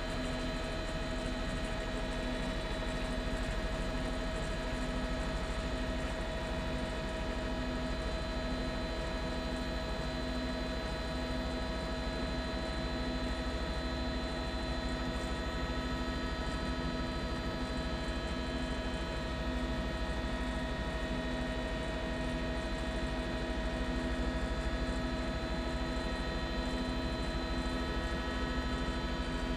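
Steady drone of a news helicopter heard from inside the cabin: engine and rotor noise as a constant hum with many fixed pitches and a low rumble, unchanging throughout.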